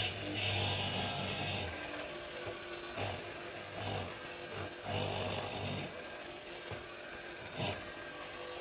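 Power tool working wood in several short bursts, the longest over the first second and a half, with shorter passes about every second after that.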